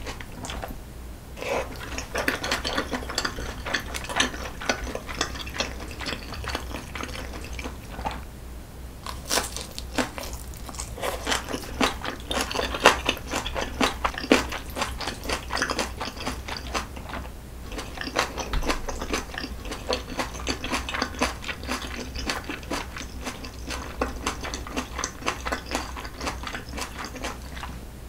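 Close-miked chewing of spicy jjajangmyeon, with crisp crunches from the onion and chili pepper pieces and dense clicking mouth sounds. It comes in runs broken by a couple of short pauses.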